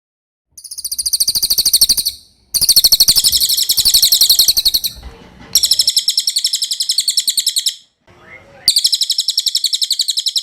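Cililin songbird singing: loud, very high-pitched rapid trills, each a fast even run of notes. They come in four phrases of about two seconds each, separated by short pauses.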